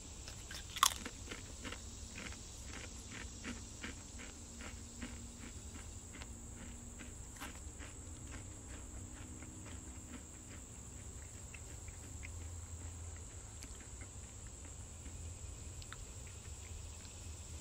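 A Pringles potato crisp bitten with one sharp crunch about a second in, then chewed with a steady run of crisp crunches about two a second that thin out after about ten seconds.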